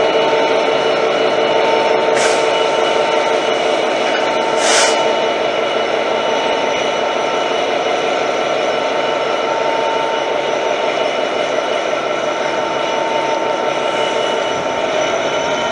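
A train running close by: a loud, steady hum of several tones from its engine and traction equipment, with two short hisses about two and five seconds in. Near the end the tones begin to rise in pitch.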